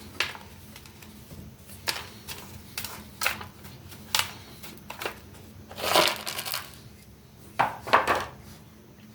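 Short crunching scrapes about once a second, with two longer, louder crunches about six seconds in and near the end: dried mud crust being broken and scraped off a mug.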